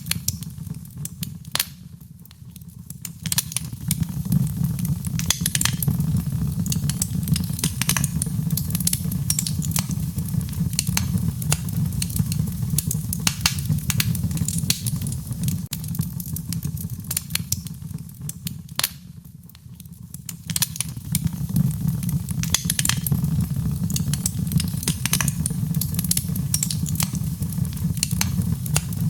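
Wood fire crackling, with sharp pops scattered throughout over a steady low rumble of burning; the rumble briefly drops away twice.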